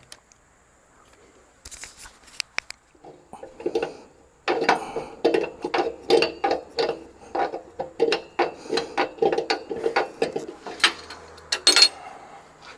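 Hand tools working a stubborn air-line fitting loose on a semi truck's air tank valve: a few scattered clicks, then from about four seconds in a long run of quick, rhythmic metal ratcheting and scraping strokes, two to three a second, that stop near the end.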